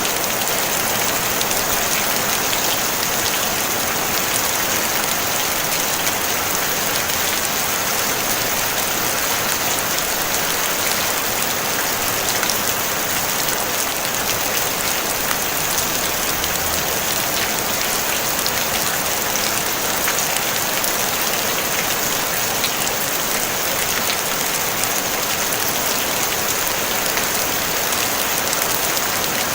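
Steady rain falling on a tin roof: a dense, even hiss of drops, with many small sharp taps of single drops on the metal.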